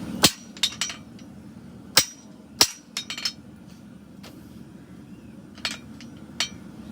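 Hammer driving a nail-hole stamp into a hot horseshoe on an anvil: about eight sharp, ringing metal strikes, irregularly spaced, with a lull of about two seconds midway.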